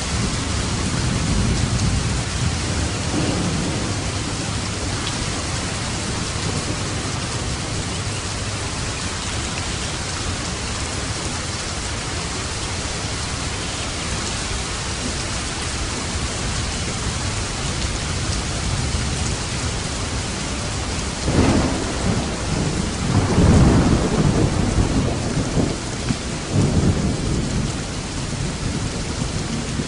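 Steady heavy rain on a roof, an even hiss throughout, with thunder: a low rumble in the first few seconds, then about two-thirds of the way through a sudden sharp crack followed by several seconds of rolling rumbles.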